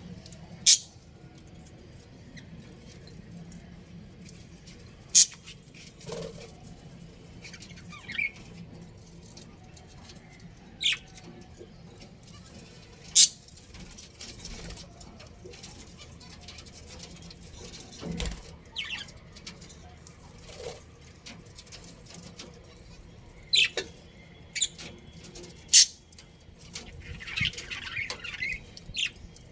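Budgerigars giving short, sharp chirps every few seconds, with a brief burst of chattering near the end.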